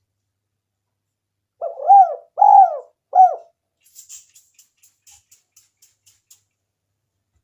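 Spotted dove cooing its three-note call, each note rising and falling. A run of faint quick clicks follows, about four a second.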